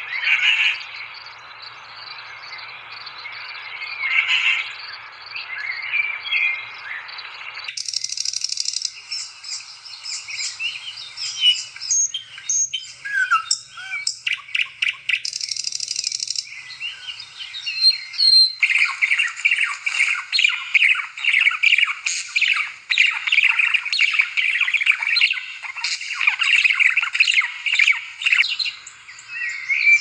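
Birds chirping and calling, several recordings joined together: the sound changes abruptly about a quarter of the way in and again a little past halfway. The last part is a dense chorus of rapid chirps.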